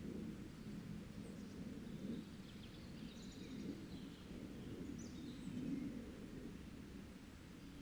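Scattered faint bird chirps and short whistled calls, some gliding in pitch, over a steady low rumble.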